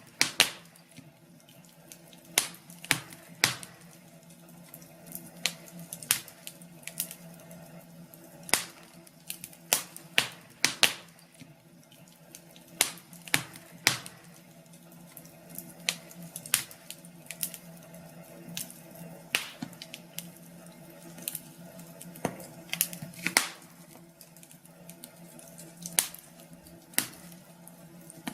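Wood fire crackling in a fireplace: irregular sharp pops and snaps, one to three a second, over a faint steady low hum.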